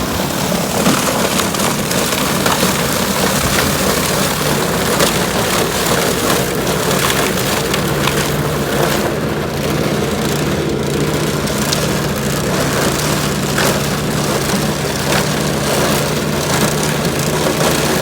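A small gas engine running steadily while ice is broken up, with a constant crackle and crunch of cracking ice.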